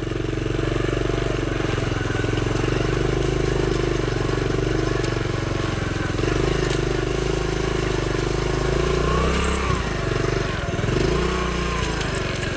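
Honda CT70's small single-cylinder four-stroke engine running at low speed as the bike is ridden through a muddy stretch of trail. Its pitch is steady for most of the time, then rises and dips a couple of times near the end as the throttle is worked.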